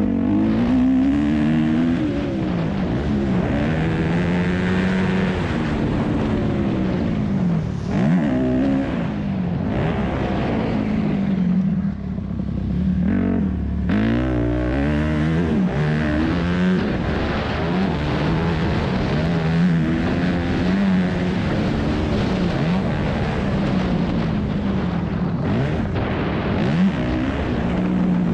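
2001 Yamaha YZ250F four-stroke single-cylinder engine revving hard while racing on a motocross track. Its pitch climbs and drops again and again through gear changes and throttle chops, with a short lull about twelve seconds in.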